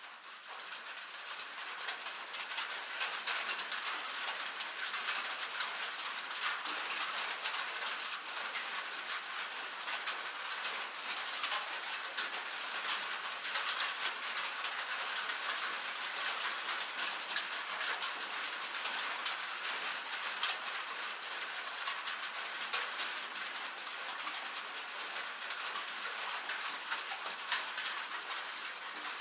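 Rain on a metal roof: a dense, steady patter of many small sharp ticks from the drops. It fades in from silence over the first couple of seconds.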